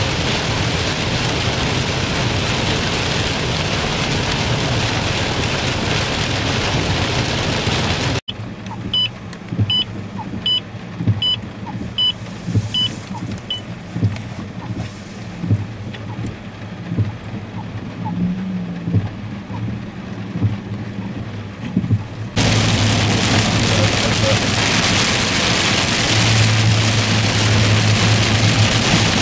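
Heavy rain and tyre spray on a flooded road, heard from inside a moving vehicle. It is loud and steady, cut about eight seconds in to a quieter stretch with a low engine hum and a short run of high beeps about twice a second. Loud steady rain and road noise return for the last several seconds.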